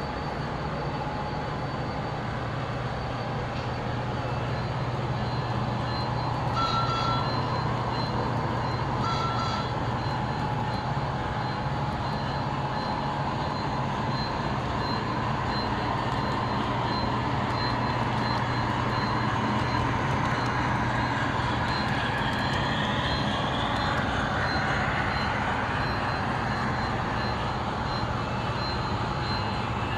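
Model passenger trains running on a model railroad layout, a steady rolling hum of motors and wheels on track. Two short beeps come about two seconds apart, around a quarter of the way in.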